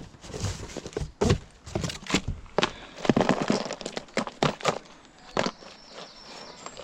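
Small hard objects clattering and knocking irregularly as they are handled and sorted through by hand, with a denser stretch of rustling and rattling about three seconds in.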